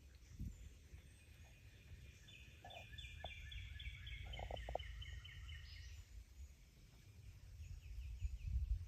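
A bird calls in a rapid run of repeated notes lasting a few seconds, starting about two seconds in, over a low steady rumble of wind or handling noise. A few soft ticks fall around the middle.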